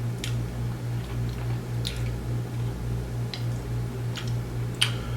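A person chewing food close to the microphone, with a few short wet mouth clicks, over a steady low electrical hum.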